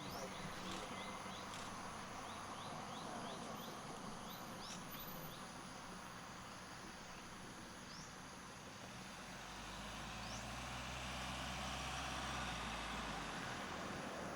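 Steady outdoor background of insects with short, quick chirps. About nine seconds in, a vehicle engine's low hum comes up and fades again shortly before the end.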